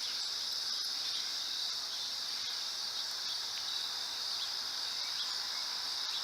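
Steady, high-pitched chorus of insects, an even unbroken drone.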